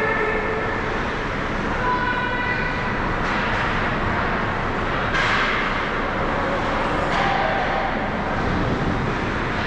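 Ice hockey rink game sound: a steady echoing din of the arena, with sharp knocks about five and seven seconds in and brief pitched sounds a couple of seconds in.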